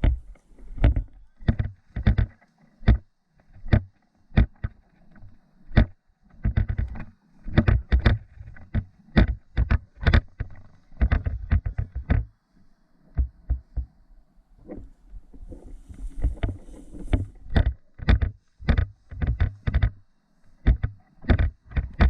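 Footsteps of a person walking at a steady pace, about two heavy steps a second close to the microphone, with a couple of brief pauses.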